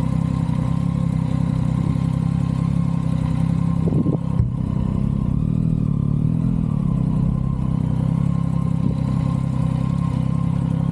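Motorcycle engine running at a steady, even speed during a ride, with a short break in its note about four seconds in.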